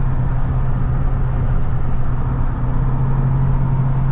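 Plow truck driving steadily on the highway: an even drone of engine and road noise with a strong low hum, unchanging throughout.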